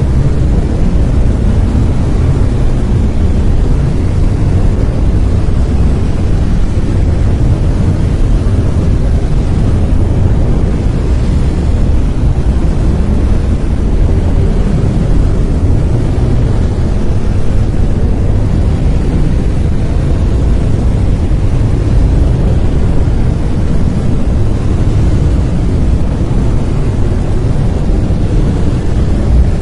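Brown noise: a steady, deep rumbling hiss, loudest in the bass and fading toward the treble, with no change at all.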